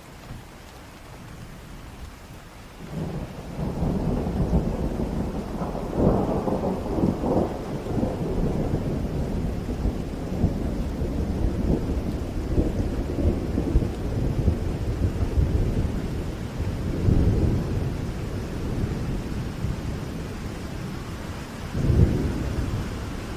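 Steady rain with thunder rolling in about three seconds in and rumbling low through the rest of it, swelling and fading, with a sharper, louder thunderclap near the end.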